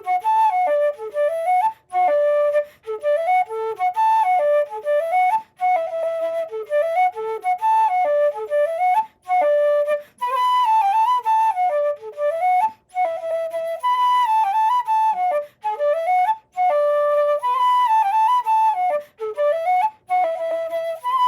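Solo Irish wooden flute made by Patrick Olwell, in cocus wood, playing a slide: one lively melodic line with short breaks for breath. About halfway through, the tune rises into the upper octave.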